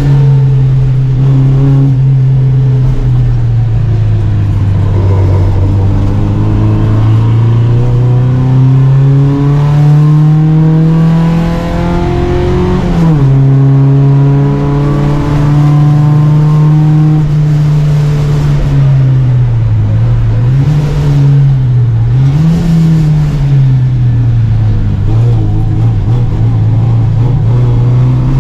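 Volvo Amazon 121 race car's four-cylinder engine at full throttle, heard onboard. The revs climb steadily and drop sharply at an upshift about 13 s in, then hold high. Around 20 to 23 s the revs dip and rise twice before climbing again near the end.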